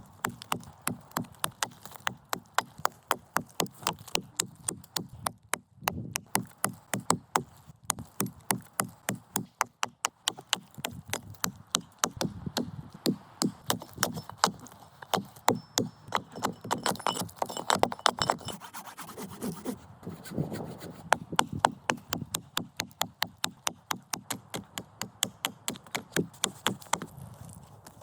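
Rapid, regular chopping on wood with a hand tool, about three to four sharp strikes a second, with a few brief pauses.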